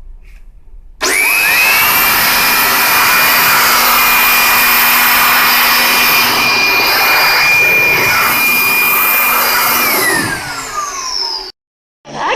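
Electric air blower switched on about a second in: its motor whine rises quickly to a steady high pitch over a loud rush of air, blowing excess cleaning solution off a cassette recorder's case. Near the end it is switched off and the whine falls in pitch as it winds down.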